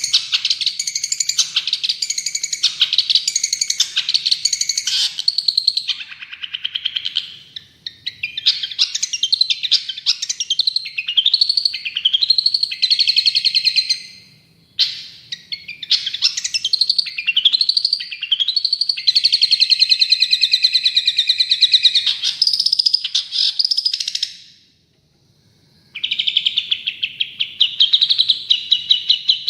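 Long-tailed shrike (cendet) singing loudly and continuously, in varied phrases of rapid chattering notes and rising whistled sweeps, broken by brief pauses, the longest about a second and a half near the end.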